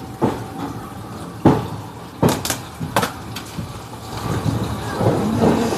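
Inside a passenger train: a few sharp, irregular knocks and clanks, then a rumble that grows louder from about four seconds in as the train runs.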